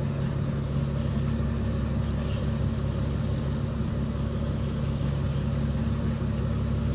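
A fishing boat's engine running at a steady speed, a constant low hum.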